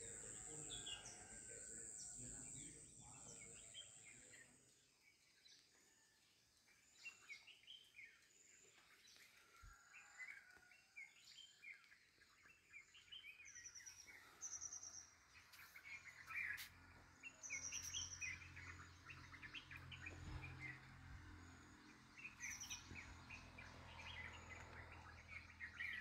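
Faint wild bird calls: many short chirps and whistles over a low background hiss, busier in the second half.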